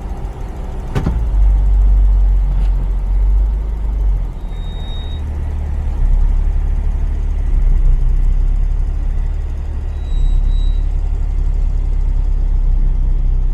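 Mercedes Sprinter's OM642 3.0-litre V6 diesel running, a low rumble that swells and eases several times, with a sharp click about a second in.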